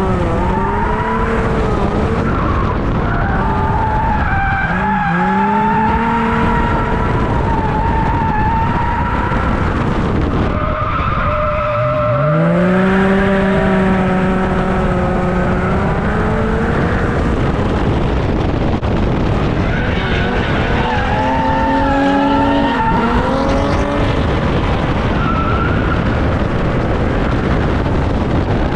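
A car engine being driven hard, its pitch rising and falling repeatedly as it revs up and drops back, over a steady rush of tyre and road noise. There are clear drops and climbs about 4 seconds in, about 12 seconds in, and again between about 20 and 24 seconds.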